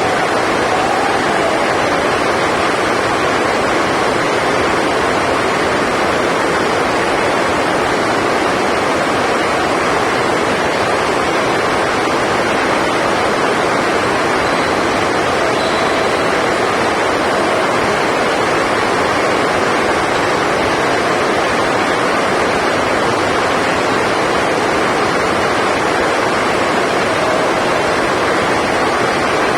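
Heavy rain on the roof of a sports hall, a steady even hiss that does not let up.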